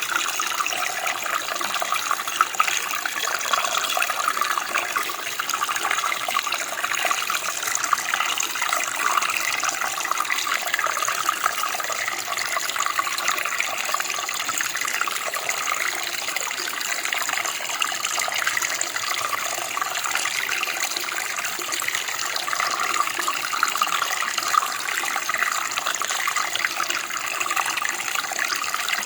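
Running water in a stream or creek, flowing steadily with a continuous splashing rush.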